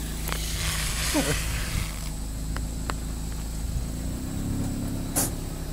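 Stripped-down car's engine idling steadily at the bare exhaust, with a few light clicks and one sharper click about five seconds in.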